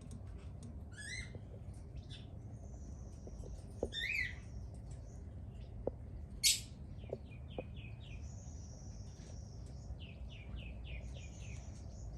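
Birds chirping and calling: short high whistled notes and quick runs of chirps come and go, with one louder sharp call about six and a half seconds in, over a steady low background rumble.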